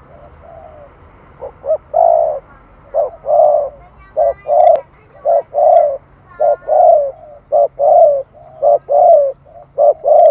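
Spotted dove cooing. It starts faintly, then from about one and a half seconds in gives a fast run of loud paired coos, a short note followed by a longer one, about once a second.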